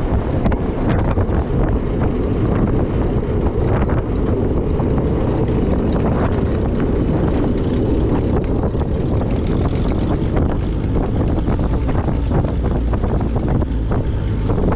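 Cessna 170A's piston engine and propeller running, a loud, steady, deep drone with scattered small knocks.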